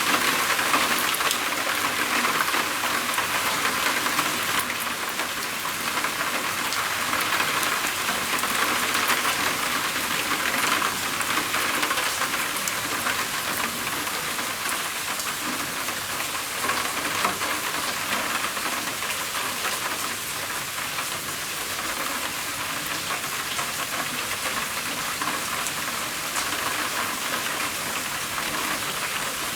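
Rain falling steadily on a roof: a dense patter of drops with fine individual ticks, easing a little over the second half.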